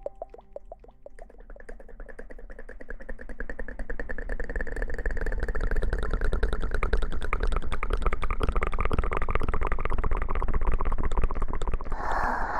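Fast, crackling rubbing and rustling close to the microphone, an ASMR trigger. It starts faint, builds over the first few seconds and then keeps up a rapid, even crackle.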